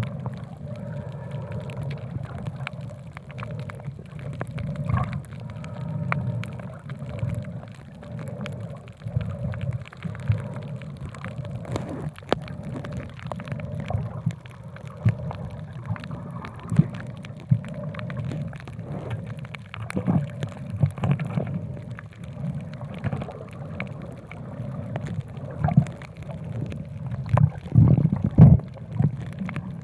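Water sound picked up by a camera held underwater: a muffled low rush with irregular bubbling, pops and crackles throughout.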